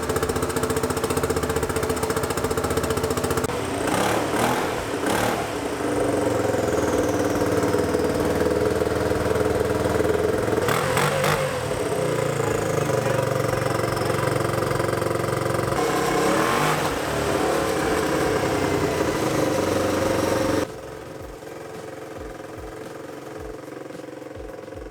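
Turbocharged Yamaha Raptor 660 single-cylinder engine under load on a chassis dyno, held at near-constant high revs with a few loud bangs or clatters along the way, then dropping away sharply about four seconds before the end. The owners blame the poor pull on the clutch slipping, which they put down to a too-tight clutch cable, with the engine bouncing off the rev limiter.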